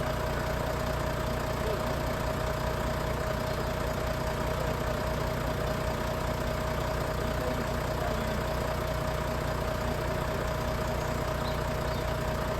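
An engine idling steadily, with a constant low hum and a steady whine above it.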